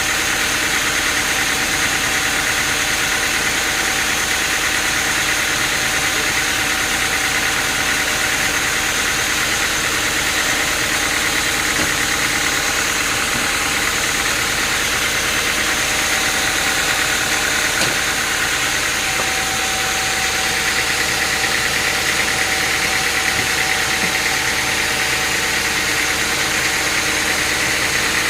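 Sawmill machinery running steadily, a constant loud engine-and-machine noise with a steady high whine on top and no change in pace.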